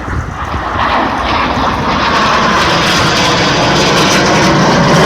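Hawker Hunter jet flying by, its engine noise a loud rushing roar that grows steadily louder.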